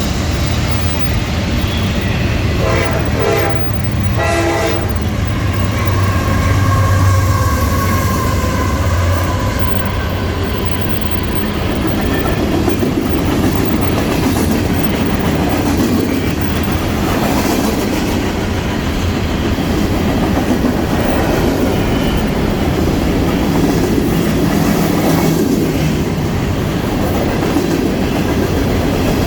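CSX diesel freight locomotives and cars rumbling past, wheels clacking over the rail joints. Two short horn blasts sound about three and four seconds in.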